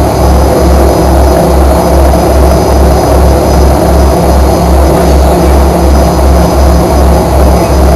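Fokker 100 cabin noise from its rear-mounted Rolls-Royce Tay turbofans running. It is a steady, loud rumble with a low throb that pulses evenly about three times a second.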